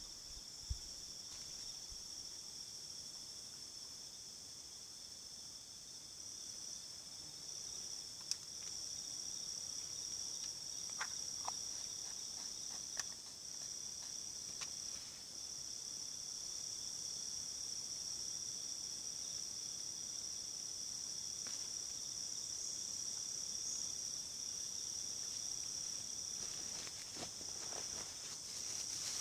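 Insects droning in a steady, high-pitched continuous chorus, with a few faint clicks.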